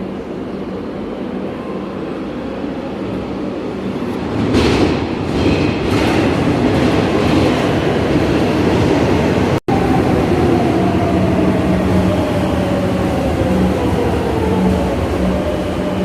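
Madrid Metro train running, getting louder about four and a half seconds in. After a momentary dropout near the middle, a whine falls slowly in pitch over the train's running noise.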